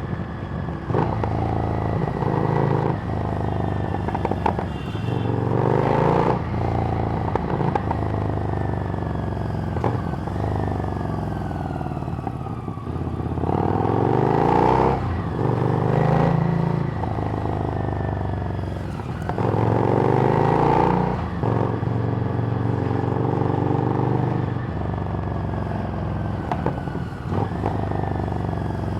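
Harley-Davidson Street Rod's V-twin engine through a Screamin' Eagle exhaust, under way: the revs repeatedly climb and then drop back, as when shifting through gears and rolling off the throttle, with wind rushing past.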